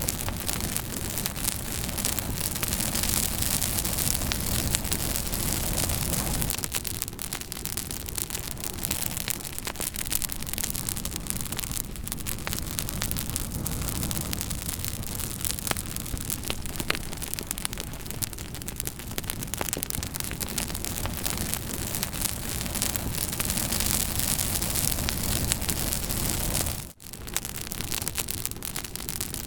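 Campfire burning, with a steady noisy rush and many small crackles and pops from the burning wood. The sound briefly drops out once near the end.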